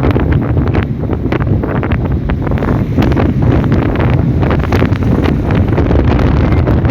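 Strong wind buffeting the microphone in a storm: a loud, steady rumble broken by many short crackles.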